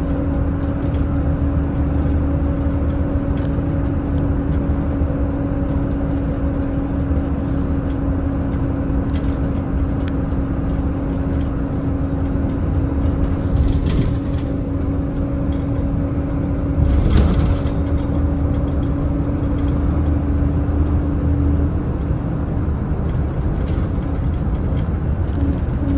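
Daewoo FX116 express bus cruising at steady speed: a constant engine and road drone with a steady hum over it. Two short knocks or rattles stand out, about 14 and 17 seconds in.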